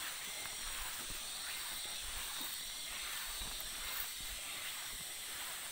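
Steady high-pitched outdoor hiss with a few soft low thumps.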